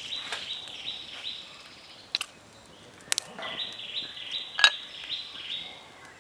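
A bird calling in a fast series of high chirps, about three a second; the calls stop a little after a second in and start again around three and a half seconds. A few sharp clicks cut in, the loudest about four and a half seconds in.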